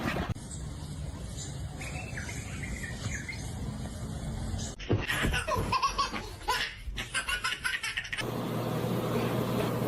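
A person laughing in short rhythmic bursts, over the changing background noise of several home-video clips cut together.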